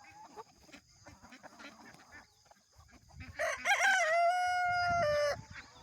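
A rooster crowing once, a call of about two seconds that rises at the start, then holds one pitch and stops abruptly, a little over halfway in. Faint soft sounds from the flock come before it.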